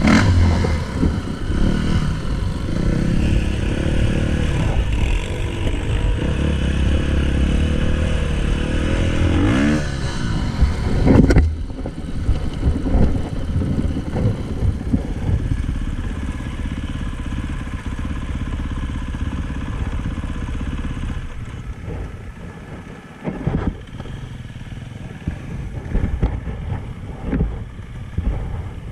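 Dirt bike engine running under throttle as the bike is ridden, its pitch rising and falling with the throttle. A sharp rev about ten seconds in, after which it runs lower and quieter with a few brief louder spurts.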